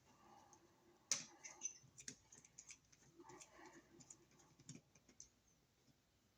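Faint, irregular clicks and ticks of hand work on an old wall receptacle and its wiring, the small sounds of plastic and metal parts being handled, with one sharper click about a second in.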